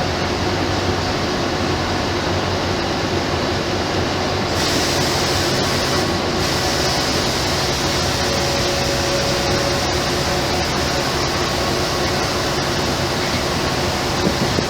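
Mercedes-Benz O-500MA Bluetec 5 bus's diesel engine running steadily, mixed with a steady rush of road and vehicle noise. A brighter hiss joins about four and a half seconds in and carries on.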